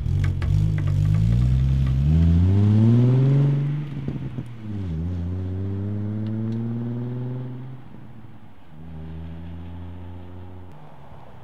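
2011–2012 Ford Mustang 3.7-litre V6 running through an MBRP stainless axle-back exhaust while accelerating. The pitch climbs, drops sharply about four seconds in, climbs again, then settles into a steady lower, quieter note for the last few seconds.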